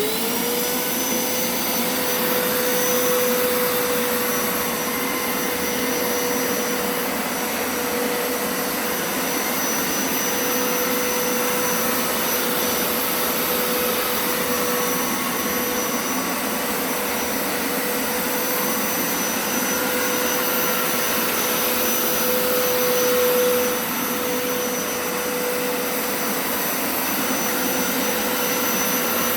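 Hoover Turbo Scrub carpet cleaner running. Its motor spins up with a quick rising whine at the start, then runs steadily with a hum and a high whine over a rush of suction.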